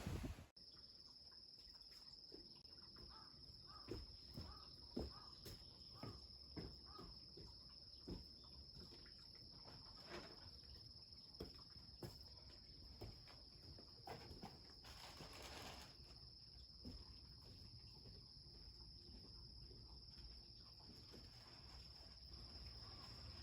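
Near silence: a faint steady high-pitched tone with scattered soft ticks and clicks.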